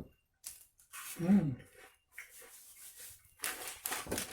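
A brief voice sound about a second in, then from about three and a half seconds a dense crackling of a plastic snack packet being handled and torn open.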